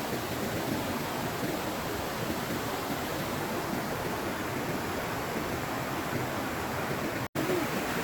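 Steady rushing of flowing water, broken by a split-second cut to silence shortly before the end.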